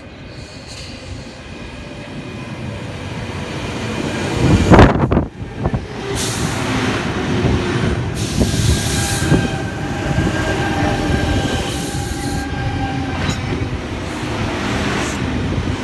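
A Sydney Trains C-set double-deck electric train pulling into the platform. Its rumble builds, with a loud rush about five seconds in, then steady running noise with thin high squealing tones over it.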